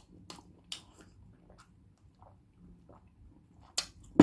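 Close-miked mouth sounds of a person eating boiled duck egg (balut): scattered soft wet clicks of chewing, with a sharper click near the end.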